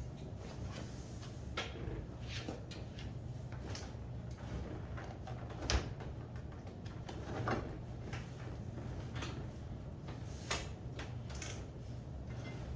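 Scattered clicks and clunks of hand tools and parts being handled, the loudest knock about halfway through, over a steady low hum.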